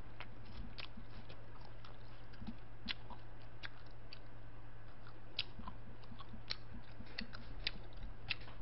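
Close-up mouth sounds of a person chewing instant jjajang noodles: scattered small wet clicks and smacks over a steady low hum.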